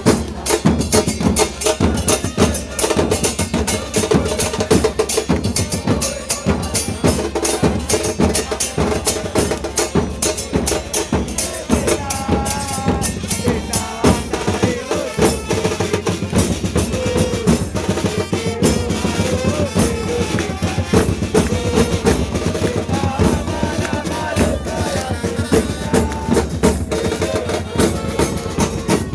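A football supporters' drum band playing: bass drums and snare drums pounding a fast, steady beat with rolls, with a tune carried over the drums.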